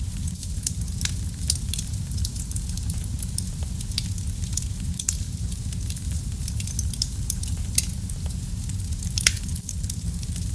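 Wood fire burning in a fireplace: a steady low rumble of flames with irregular sharp crackles and pops, two louder pops near the end.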